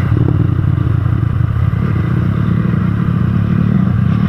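Rusi Sigma 250 motorcycle with an aftermarket Akrapovic exhaust pipe, its engine running steadily at cruising speed as it rides through a curve.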